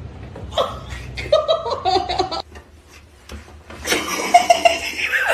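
A person laughing in two bouts: short bursts from about half a second in, then louder, breathier laughter from about four seconds in.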